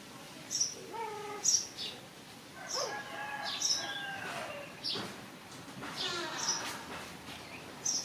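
Small birds chirping nearby: short, high chirps repeating about once a second, over a low background hum.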